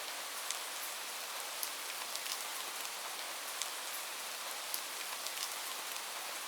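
Light rain falling steadily: an even hiss with many separate drops ticking sharply on a surface.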